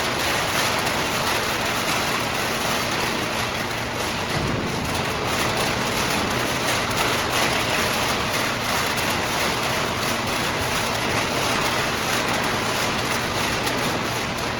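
Hydraulic aluminum can baler running: a steady, dense mechanical noise that holds even throughout.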